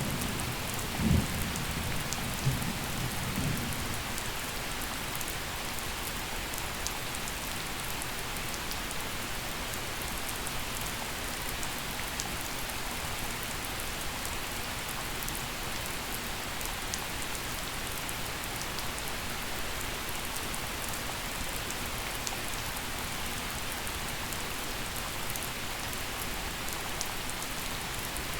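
Gentle steady rain falling during a thunderstorm, with scattered drops ticking. A low rumble of thunder with two sharper peaks dies away over the first few seconds, leaving the even hiss of the rain.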